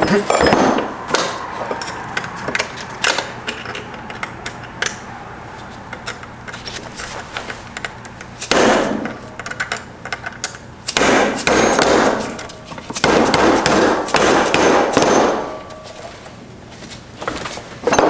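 Hammer blows on the steel internals of a Subaru six-speed transmission, driving a part out with a punch: scattered clanging strikes, with a few louder, denser stretches lasting a second or two.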